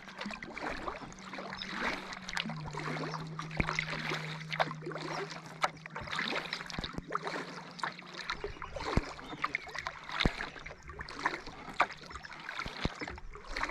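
Kayak paddling on a river: irregular small splashes and drips of water from the paddle blades, over a steady low hum that drops slightly in pitch about two and a half seconds in.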